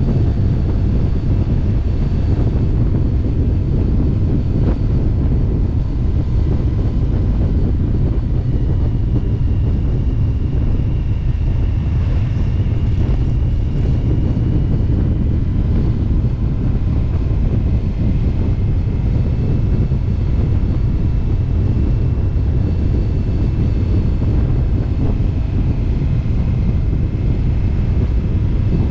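Indian motorcycle V-twin engine running steadily at cruising speed, with heavy wind buffeting on the microphone. A faint high whine comes and goes over the low rumble.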